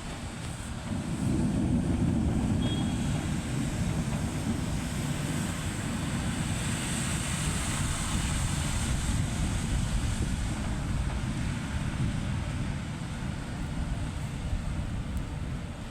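Rain and wind at night with wind buffeting the microphone: a steady low rumble and a hiss that swells for a few seconds around the middle.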